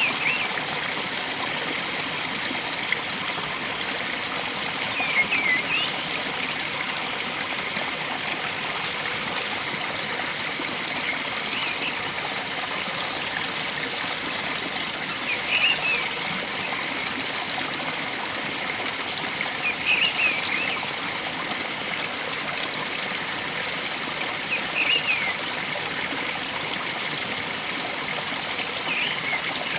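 Flowing stream water rushing steadily. Over it a forest bird gives a short chirping call about every four to five seconds, seven times in all.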